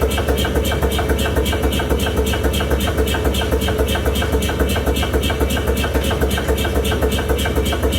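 Mechanical power hammer striking rapid, evenly spaced blows, about five to six a second, over the steady low hum of its motor, drawing hot square steel bar down into half-round bar.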